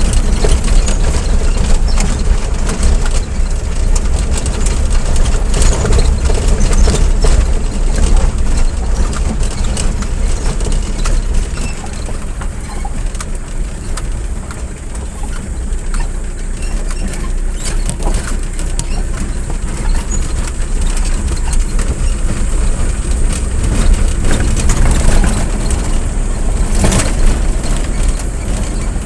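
A motor vehicle running, with a steady heavy low rumble and road noise that ease off a little in the middle.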